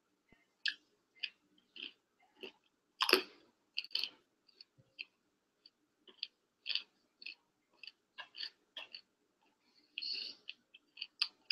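A person chewing mouthfuls of broccoli, heard as irregular short crunching clicks, about one or two a second, with a louder crunch about three seconds in.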